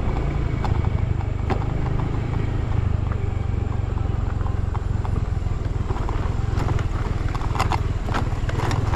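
Motor scooter engine running steadily at low speed on a rough dirt road, with scattered clicks and knocks through it.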